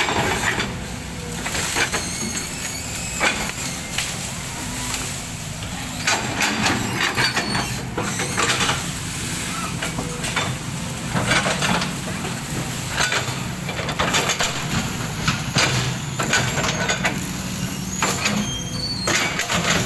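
A heavy machine's engine running steadily under load, with repeated sharp cracking and snapping as an oil palm trunk is pushed over.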